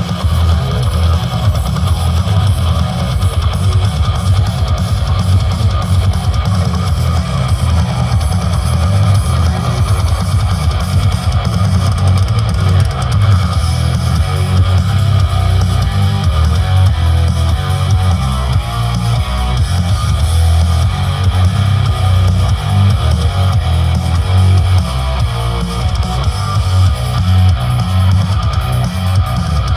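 Music with guitar and heavy bass played loud through a 10,000-watt sound-system rig during an SPL loudness test. The low bass is the loudest part.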